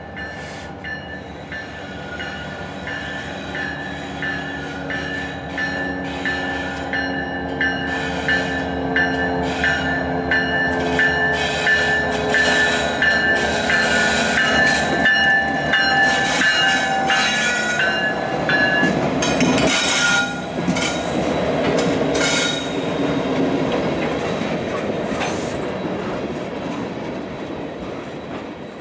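A train passing by, its wheels clicking regularly over the rail joints with a steady high squeal. It builds to a peak about halfway through, then fades away.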